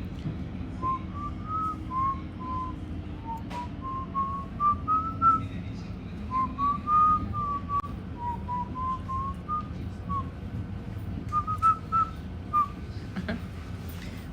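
A woman whistling a tune by mouth, a melody of short notes moving around 1 kHz with brief pauses, over the steady low rumble of a moving train.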